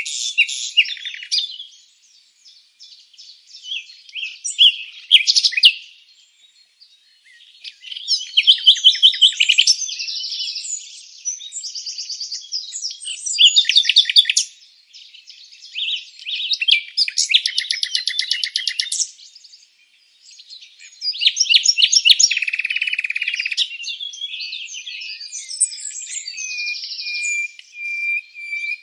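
Songbirds chirping and singing in bursts of rapid trills and chirps, with short pauses between phrases.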